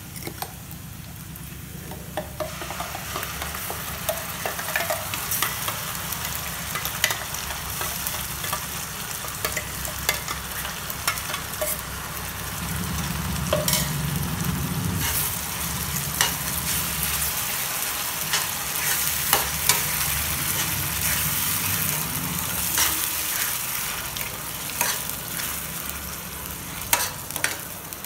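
Onions and carrots frying in oil in a stainless steel pan, the sizzle growing louder from about two seconds in as a ground tomato, ginger and garlic paste goes in. A steel spoon clicks and scrapes against the pan as the mixture is stirred.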